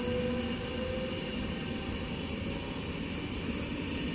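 Regional passenger train (electric locomotive hauling double-deck coaches) passing, a steady rumble of wheels on rails. A faint tone from the locomotive drops slightly in pitch and fades about a second in.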